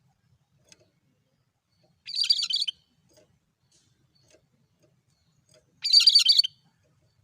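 Cucak kerinci calling twice, about four seconds apart: each call is a short, harsh, high-pitched burst lasting under a second, with the same monotone note.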